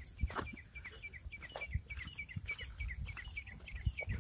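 A small bird chirping steadily, short falling chirps about five a second, over the low thuds of footsteps on a sandy dirt track.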